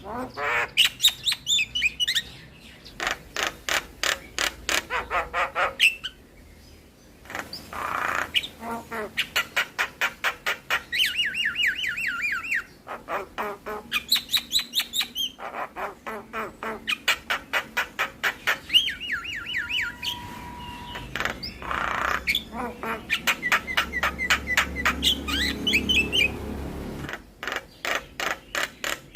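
Javan myna (jalak kebo) singing a long, loud song of fast repeated notes, about five a second, mixed with chattering and squeaky whistled phrases, its full repertoire of mimicked calls. There is a short pause about six seconds in.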